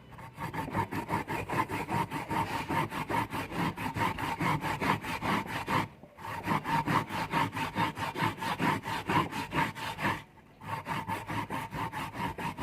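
Rhythmic back-and-forth scraping of a kitchen utensil, about four or five strokes a second, stopping briefly twice.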